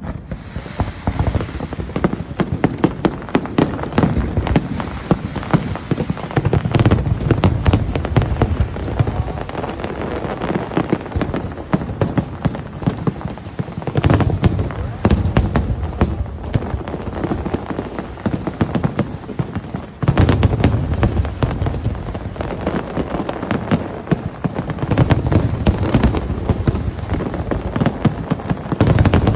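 Fireworks display going off in a dense, continuous barrage of sharp cracks and pops over deep booms, swelling louder several times.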